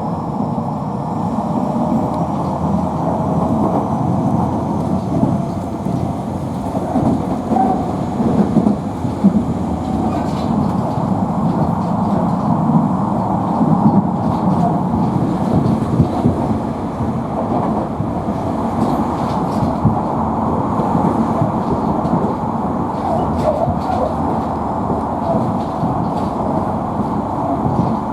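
Tobu Noda Line electric commuter train running between stations, heard from inside the car: a steady rumble of wheels on rail with a faint rising motor whine in the first few seconds and occasional rail-joint clacks.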